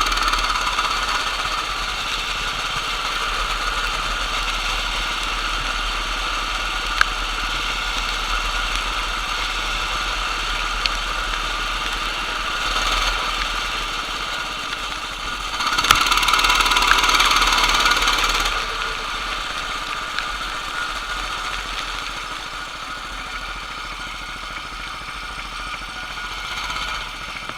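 Racing kart engine running steadily, louder for about two and a half seconds around sixteen seconds in, with a few sharp ticks.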